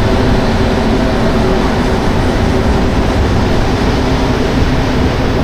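Montreal Metro rubber-tyred train running between stations, heard from inside the car: a loud, steady rumble with a faint hum of held tones over it.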